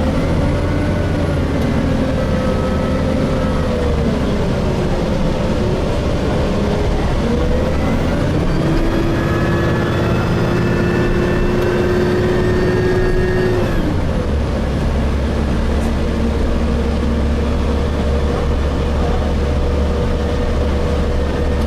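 Gillig Phantom transit bus with a Voith transmission, running on the road as heard from inside: a constant low drone with several whining tones that rise, hold and fall as the bus speeds up and eases off. About fourteen seconds in the whine cuts off and the sound settles into a steady drone with one even tone.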